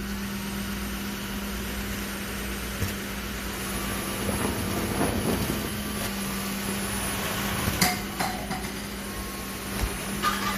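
Dreame H12S wet-dry vacuum mop running, with a steady motor hum and a high whine under the noise of its suction and brush roller. There are a few sharp knocks and clatters along the way.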